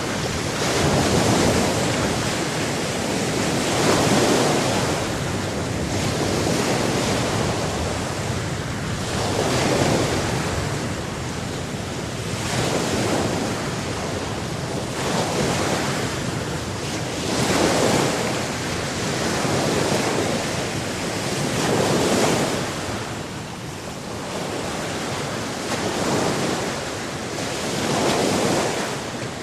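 Sea waves breaking and washing on the shore, the surf swelling and easing every two to three seconds, with some wind.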